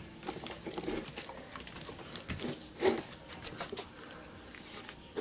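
A German Shepherd–Lab mix puppy eating, with scattered crunching clicks and taps and one louder knock about three seconds in.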